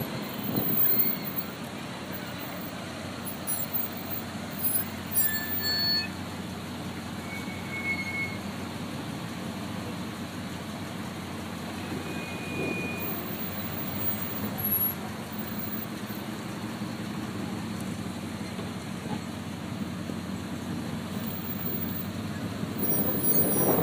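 Car engines running and cars driving past, a steady rumble that swells about a second in, around the middle and again near the end.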